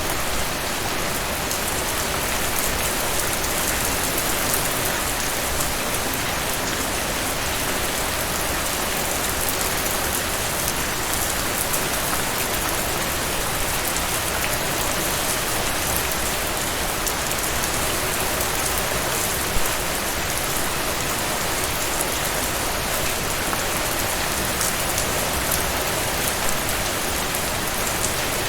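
Steady rain falling, an even hiss with many fine drop ticks on top and one slightly louder drop about two-thirds of the way through.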